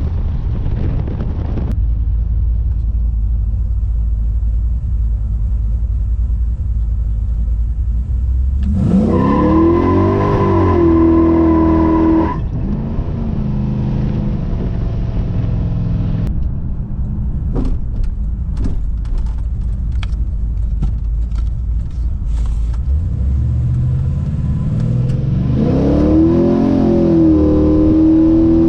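A 410 cubic inch Magnum stroker V8 pulling a 1996 Dodge Ram 1500 on the road, with a steady low rumble while cruising. Twice, about nine seconds in and again near the end, the engine is pushed harder and its note climbs and then levels off.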